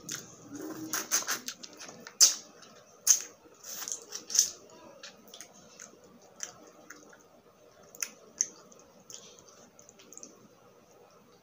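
Close-miked eating sounds: a woman biting and crunchy chewing of grilled skewered street food, heard as sharp crackly clicks and wet mouth noises. The clicks come thick and loud in the first few seconds, then grow sparser.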